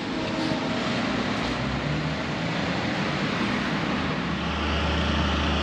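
Street traffic: motor vehicles pulling away, a steady rush of engine and tyre noise, with a low steady engine hum coming in about four and a half seconds in.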